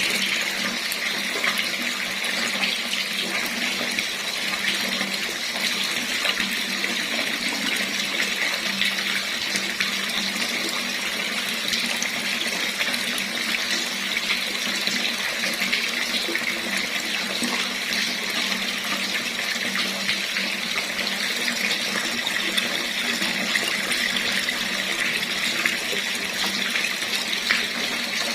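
Water running steadily from a tap, an even splashing hiss with no breaks.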